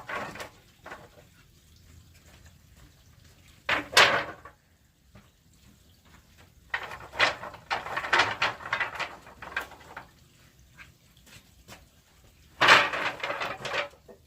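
Wood knocking and clattering as pieces are handled and set down, in three bouts of sharp knocks with quiet gaps between.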